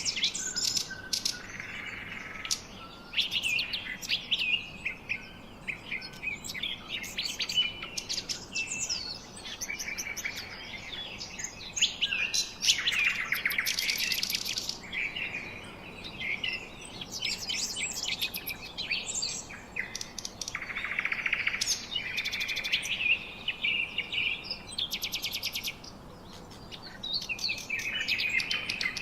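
Several songbirds singing and chirping at once, a busy chorus of short whistles, trills and rapid buzzy rattles overlapping one another.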